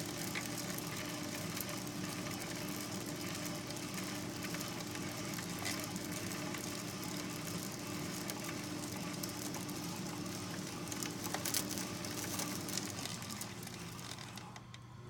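A steady mechanical running noise with a low hum, hiss and scattered clicks, fading down near the end.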